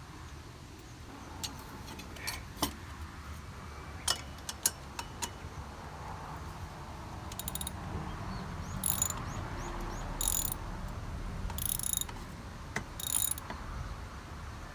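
Metal hand-tool work on the mower: a few sharp clinks of metal on metal, then a ratchet wrench clicking in four short runs about a second and a half apart, as bolts are turned.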